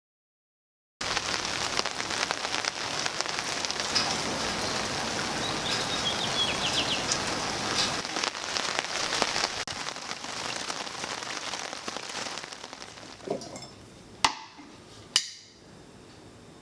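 Steady rain falling, cutting in suddenly about a second in and fading away near the end, followed by two sharp clicks.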